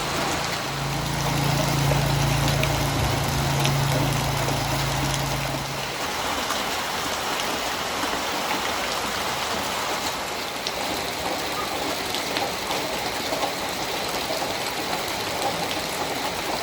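Steady hiss of heavy rain and rushing floodwater. A vehicle engine hums at idle beneath it and stops about six seconds in.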